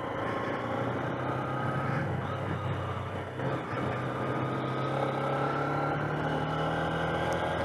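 Motorcycle engine running steadily as it is ridden at an even pace, the pitch drifting only slightly.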